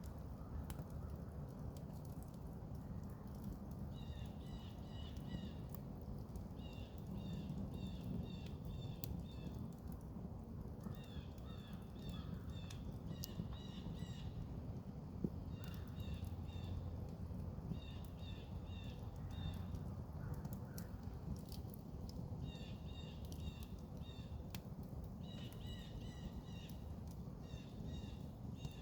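Campfire burning with a steady low rustle of flames and scattered crackles and pops. A bird calls repeatedly over it in bouts of quick high chirps, several notes a second, every few seconds.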